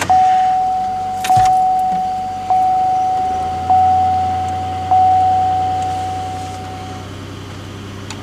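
A 2008 Pontiac Grand Prix's dashboard warning chime dings five times, about a second apart, each ding ringing out and fading, while the car's 3800 Series III V6 idles just after a cold start at about 2°F.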